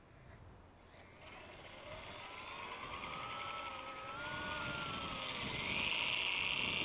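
WLtoys V950 brushless RC helicopter spooling up: quiet at first, then about a second in the motor whine and rotor noise start and grow steadily louder, the pitch gliding up and down. A higher, brighter whine joins near the end.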